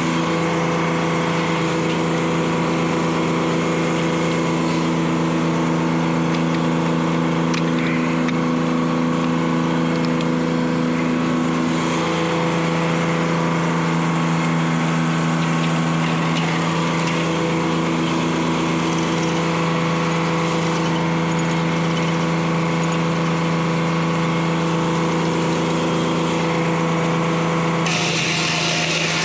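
Detroit Diesel 3-71 two-stroke diesel running steadily at a constant speed, driving the sawmill. A brighter hiss joins near the end.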